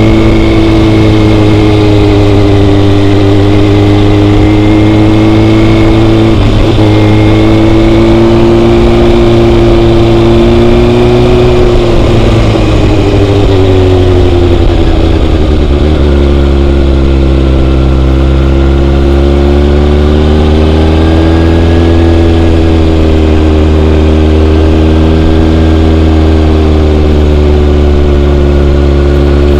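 Motorcycle engine running under way, loud and continuous. Its pitch rises and falls with the throttle, with sharp drops about six seconds in and again between about twelve and sixteen seconds.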